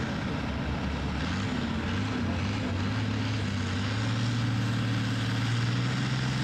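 Engine of a pulling tractor running steadily, its pitch stepping up a little about a second in and again around four seconds in.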